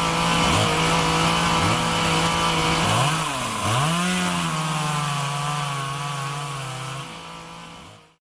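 Chainsaw engine running steadily, its speed dipping sharply and picking back up about three seconds in, then fading away near the end.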